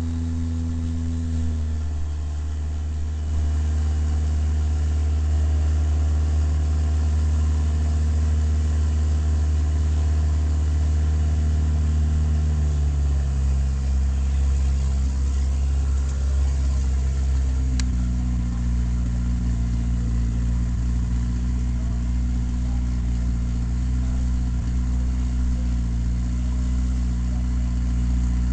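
Turbocharged stroker Toyota 18R four-cylinder engine of a drag-racing altered idling steadily. Its idle speed steps down a little about a second in and again about halfway, then rises a step later on. A single sharp click comes around two-thirds of the way through.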